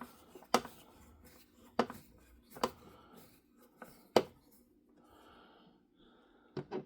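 Small screwdriver and hands working the screws of a plastic toy car: four sharp clicks spread over about four seconds, the last the loudest, with quiet handling between.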